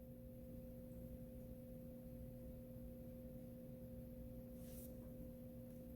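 A faint, steady pure tone held unchanged, with a fainter tone an octave above it, and a brief soft rustle about three-quarters of the way through.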